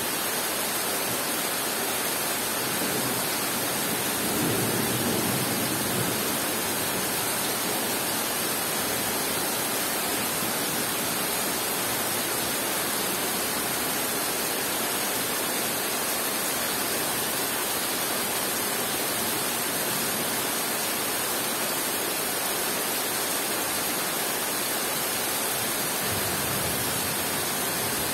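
Heavy rain falling steadily on forest foliage, an even dense hiss. Soft low rumbles of thunder swell about four seconds in and again near the end.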